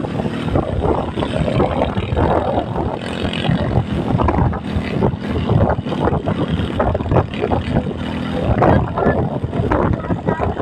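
A motor vehicle engine running steadily while on the move, with wind buffeting the microphone in uneven gusts.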